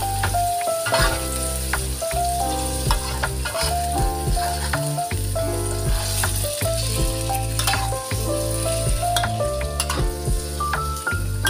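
Chicken pieces sizzling as they fry in a wok, with a metal spatula scraping and knocking against the pan as they are stirred. Background music with a stepping melody and steady bass plays throughout.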